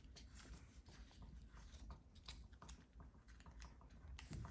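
Faint rustling and crinkling of a sheet of colored origami paper being handled and folded inward, with scattered small clicks.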